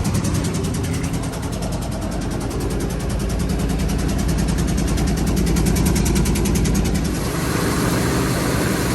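Car engine running at idle on its first startup, a steady, fast pulsing beat, which the owner finds makes weird noises. About seven seconds in, the sound turns noisier and more hissing.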